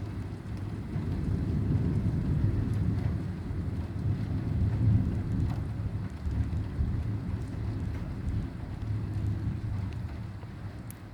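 Heavy rain falling steadily, with a deep rumble under it that swells about a second in, peaks midway and slowly eases off.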